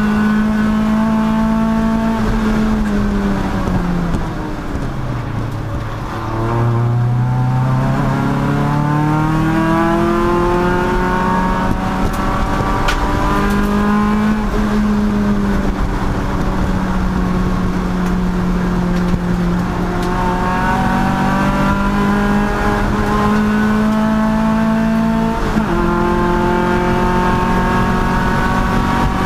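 Race car engine running hard at high revs. The revs fall about four seconds in, climb steadily for several seconds, hold, then rise again and drop sharply once near the end, as at a gear change.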